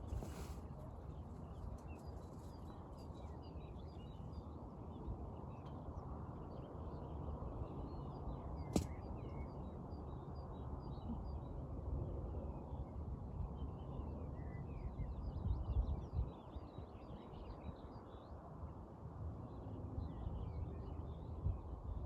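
Birds chirping faintly and repeatedly over a steady low rushing noise, with a single sharp click about nine seconds in.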